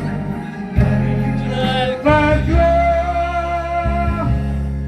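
A singer sings a Korean pop ballad over a backing band with bass and guitar, holding one long note about halfway through.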